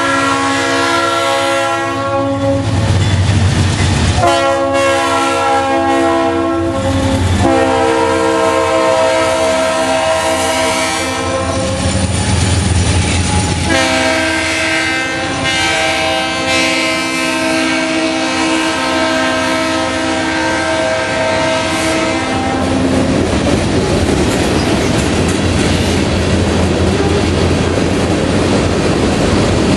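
Freight locomotive horn sounding for a grade crossing in four blasts, the last held about nine seconds, over the rumble of the passing train. After the horn stops, boxcars roll by with a steady clickety-clack of wheels over the rail joints.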